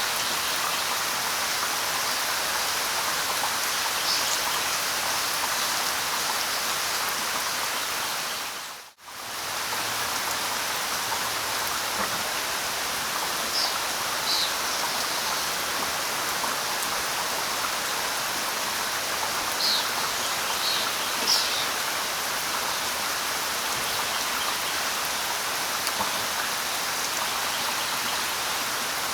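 Steady light rain hissing on leaves, with a few short, high bird chirps scattered through it. The rain fades out almost to nothing and straight back in about a third of the way through.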